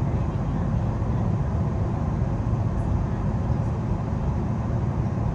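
Steady low rumble of a Queensland Rail NGR (New Generation Rollingstock) electric multiple unit running at speed, heard from inside the passenger car: wheels on rail and running gear.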